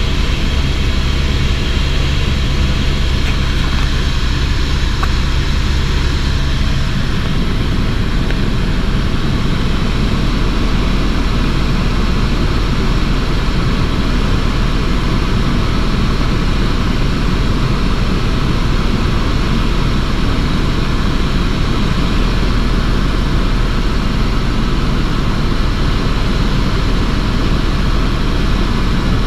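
Helicopter in flight heard from inside the cabin: a loud, steady rotor and engine drone. The low hum changes about seven seconds in.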